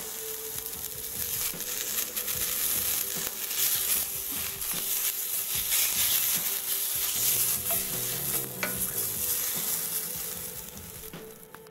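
Beef franks frying in hot bacon fat in a pan: steady sizzling with fine crackles, dying down near the end.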